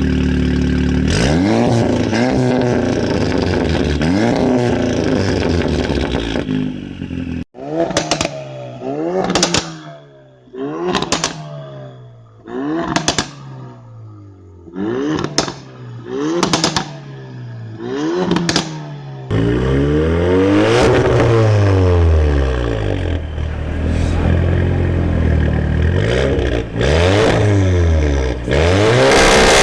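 Turbocharged four-cylinder hot-hatch engine being revved up and down through the exhaust. In the middle comes a run of about eight short, sharp throttle blips, roughly one every second and a half, each rising and dropping back. Before and after are longer rev sweeps.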